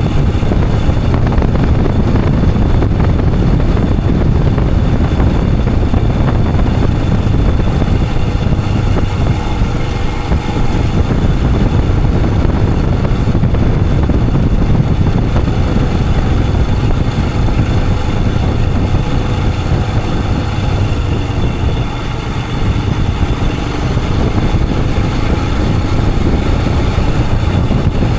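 Royal Enfield Himalayan 411's single-cylinder engine running steadily while the motorcycle is ridden along, heard with heavy low rumble.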